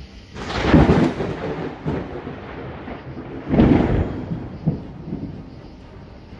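Thunder: two loud claps about three seconds apart, each dying away in a rumble.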